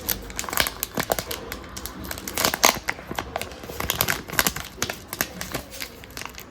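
Crinkling of a snack's plastic wrapper being handled and opened, a run of irregular sharp crackles.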